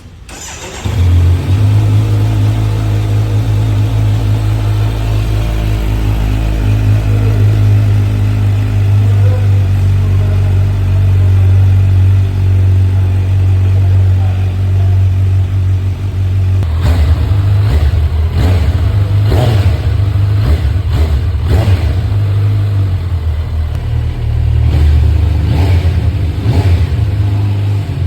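A 2025 Kawasaki Z900's inline-four engine on its stock exhaust starts about a second in and idles steadily. From about 17 s it is revved in repeated short throttle blips.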